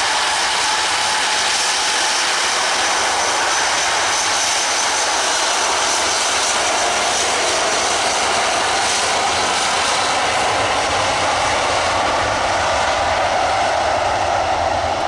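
Jet airliner's engines, loud and steady, as the aircraft runs past at high power.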